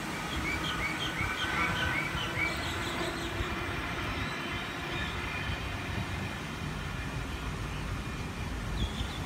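Sydney electric suburban train running away down the line, heard as a steady low rumble. A bird chirps a quick series of about seven short notes in the first couple of seconds, and once more near the end.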